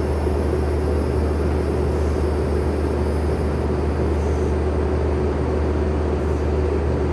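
Skid steer engine running steadily at constant speed, a low even drone with no change in pitch.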